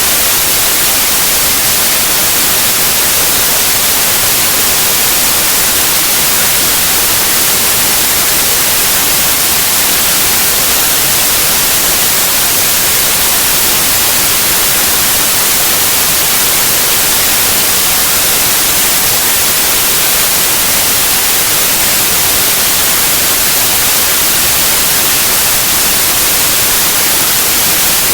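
Steady white noise: an even, unchanging hiss, loud and bright in the upper frequencies.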